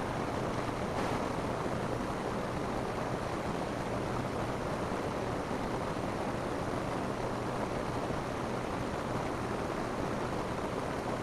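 Steady rain falling on a roof, an even wash of sound that holds the same level throughout with no let-up.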